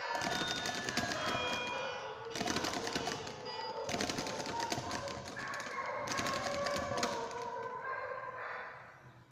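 Rapid mechanical clicking clatter in four or five bursts of one to two seconds each, with music playing underneath.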